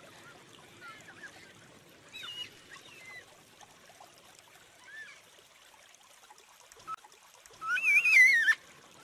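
Yellow-tailed black cockatoos calling: a few faint, distant wavering calls in the first half, then one loud wailing call with a warbling pitch near the end.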